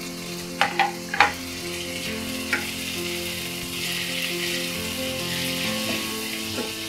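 Chopped tomatoes and onions sizzling in hot oil in a nonstick kadai, stirred with a spatula that knocks against the pan four times in the first couple of seconds. The sizzle grows louder about four seconds in.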